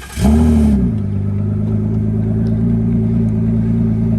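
Car engine starting: it catches about a quarter second in with a brief rev flare that drops back, then settles into a steady idle.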